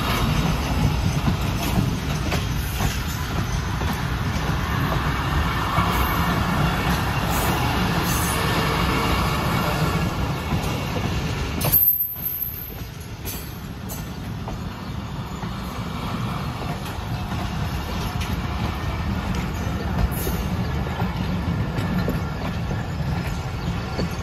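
A train running past on the rails, a steady heavy rumble. It breaks off sharply about halfway, then the rolling noise of a train builds up again.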